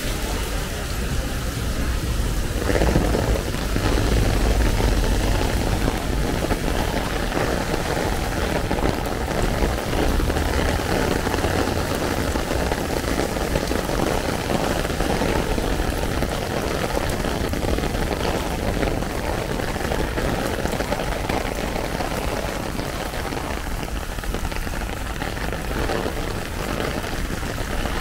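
Heavy rain falling steadily on an umbrella overhead, a dense even patter, with a low rumble swelling a few seconds in and again around ten seconds in.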